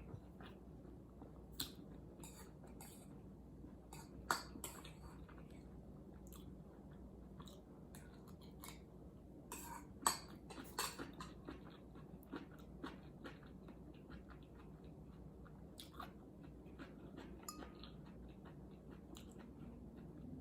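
Faint chewing and eating sounds with many scattered small clicks and a few sharper taps, the loudest about four and ten seconds in.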